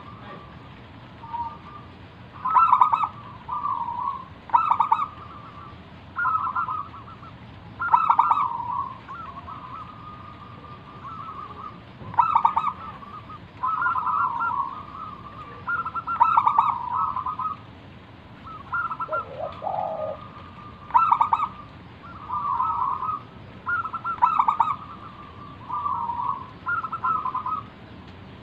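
Zebra dove (perkutut) cooing in its song (manggung): repeated phrases of quick, stuttering notes, one every second or two. A brief lower call comes in once, about two-thirds of the way through.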